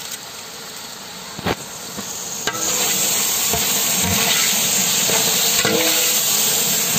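Chopped onions and tomatoes frying and sizzling in a large metal pot while being stirred with a ladle, the masala base of a biryani. There is one knock about a second and a half in, and the sizzle grows louder about two and a half seconds in.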